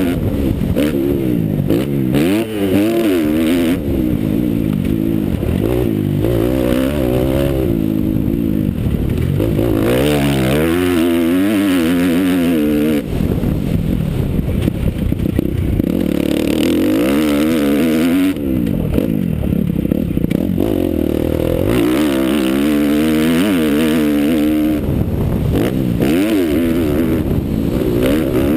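Motocross bike engine revving hard, its pitch climbing and dropping again and again as the throttle opens and closes.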